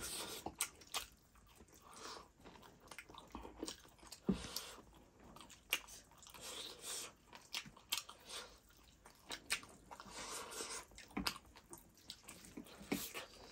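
Close-up eating sounds of two people chewing rice and chicken curry eaten by hand, with many short clicks and crunches throughout.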